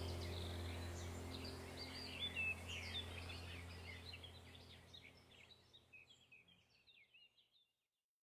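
Faint birds chirping over a low steady hum, all fading out to silence about seven and a half seconds in.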